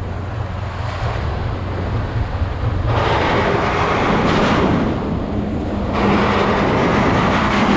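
Regal powerboat under way: the engine's steady low hum, with a rush of wind and water that grows louder about three seconds in.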